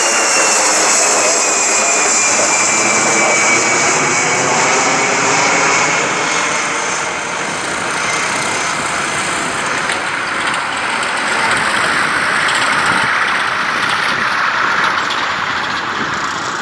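Airliner's engines running at high power as it passes by, with a thin whine falling in pitch over the first several seconds and a steady, loud rush underneath.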